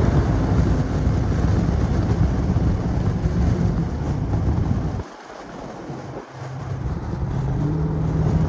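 Straight-piped Dodge Charger R/T V8 exhaust droning steadily under way. About five seconds in the exhaust note drops away briefly, then builds back up to a steady drone.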